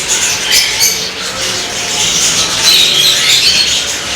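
Many caged pet birds chirping and squawking together: a dense, continuous chatter of short high calls with sharper squawks now and then.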